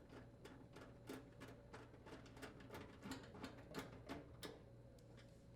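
Faint, quick clicking of a ratchet socket wrench driving in a screw that secures a dryer bracket, a few clicks a second, stopping about four and a half seconds in.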